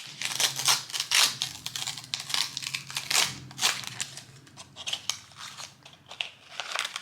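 Plastic wrapping of LOL Surprise doll accessories crinkling and tearing as it is pulled open by hand, a dense run of crackles that stops at the very end.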